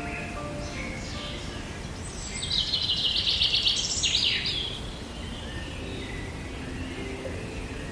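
Wild birds singing over a steady outdoor noise, with one loud, rapid chattering trill about two and a half seconds in that lasts about two seconds.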